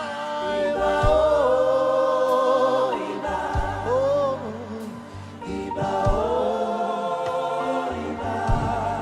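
Live gospel worship music: a choir sings long held notes over a sustained bass accompaniment.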